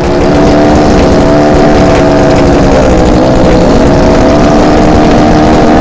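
Motorcycle engine running at high revs, loud and steady, its pitch wavering slightly.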